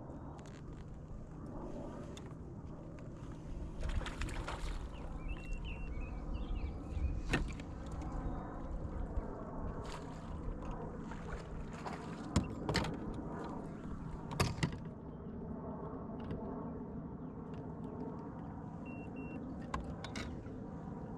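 A steady motor hum with scattered sharp clicks and knocks.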